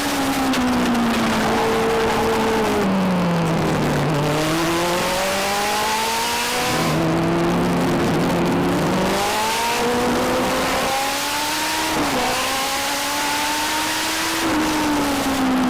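Legend car engines racing in a pack, the main engine's pitch dropping off and climbing again twice, as it would lifting for the turns and accelerating down the straights, with other cars' engines heard around it.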